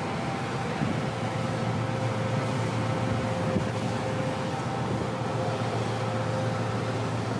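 Ship's machinery running with a steady hum that holds a few constant tones, one of them a clear mid-pitched whine.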